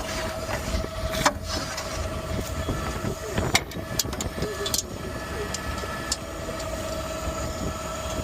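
Garbage truck idling, a steady whine over a low rumble, with a few sharp knocks about a second, three and a half and five seconds in.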